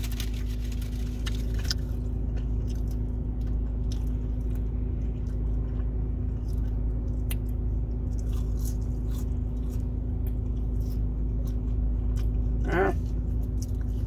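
Someone chewing and biting into a chicken nugget, with faint soft clicks of eating, over a steady low hum inside a car cabin. A short voiced 'mm' comes near the end.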